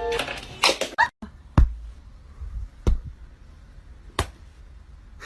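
Three sharp impact sounds, evenly spaced a little over a second apart, the first the loudest.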